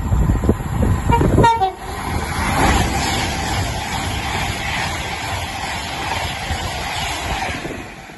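Train passing the lineside: a short horn tone about a second and a half in, then the steady rushing noise of the train going by, fading near the end.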